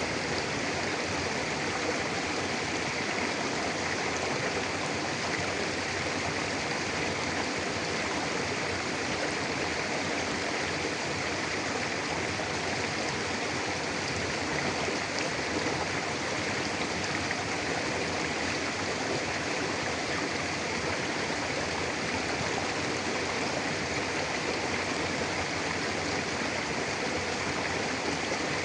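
Mountain river flowing steadily over rocks: an even, continuous rush of water.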